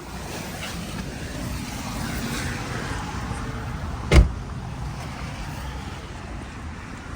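Car running with a steady low rumble, and one loud sharp thump a little past four seconds in.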